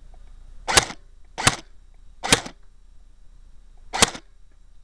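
Airsoft G3 rifle firing four single shots, unevenly spaced, each a short sharp crack heard close to the gun.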